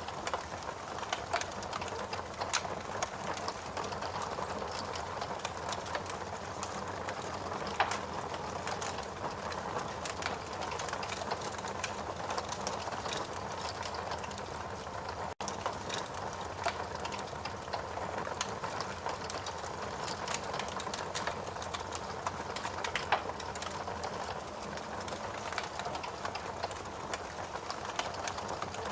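Wood fire burning in a fireplace: a steady low rush of flames with frequent, irregular crackles and sharp pops from the burning logs.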